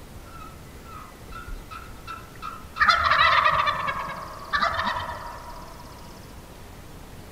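A series of soft, short yelping notes, then a wild turkey gobbling loudly twice, the second gobble starting about a second and a half after the first ends.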